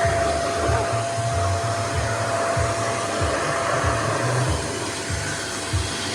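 Nunix wet and dry vacuum cleaner running as a blower: a steady rush of air with a constant whine, over an uneven low rumble.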